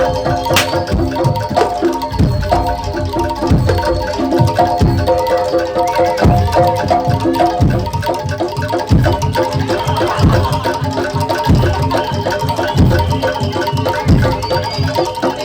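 Live Javanese gamelan music of a Jaranan Dor ensemble: metal mallet instruments play repeating interlocking notes over a steady beat of low drum strokes.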